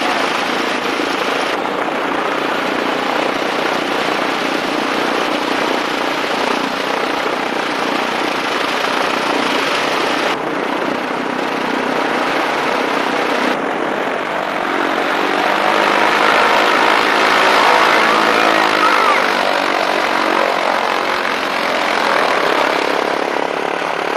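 Propeller airplane engine drone over a dense, steady rushing noise, swelling in strength a little past the middle. The sound shifts abruptly a few times where the recording cuts.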